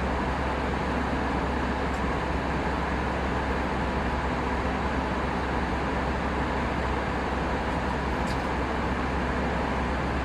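Steady cabin noise of an Airbus A319 in flight: an even rush of engine and airflow noise over a constant low hum.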